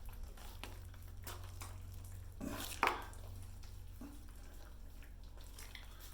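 Old drywall joint compound being stirred and scraped in its bucket: faint wet scrapes and small clicks, with one louder knock just under three seconds in.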